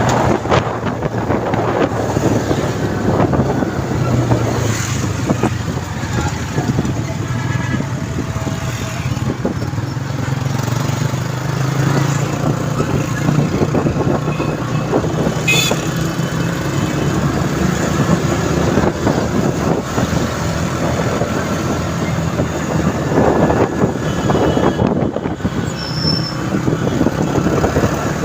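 Motorcycle engine running steadily at road speed, with wind and road noise, heard from on the bike.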